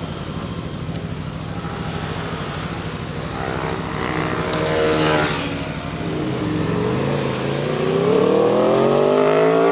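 Motorcycles riding past on a mountain road, with a steady engine note underneath. About four seconds in one bike passes, its pitch rising and then dropping. From about two-thirds of the way through another accelerates hard, its engine note climbing and getting louder.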